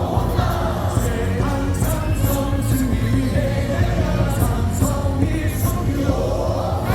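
Stadium cheer song playing over the loudspeakers with a large crowd singing along, over a steady beat.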